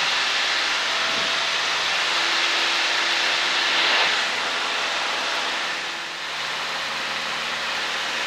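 Cessna 152's four-cylinder Lycoming engine and the rush of air, heard inside the cockpit as a steady drone. The engine note shifts about two seconds in and again about six seconds in, where it gets a little quieter.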